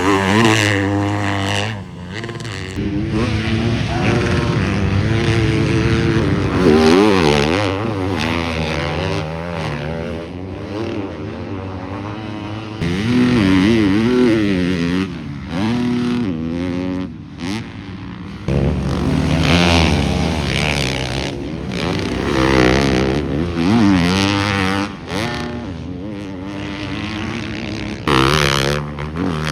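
Motocross bikes on track, their engines revving up and down over and over as one rider after another goes past, with several abrupt changes in level.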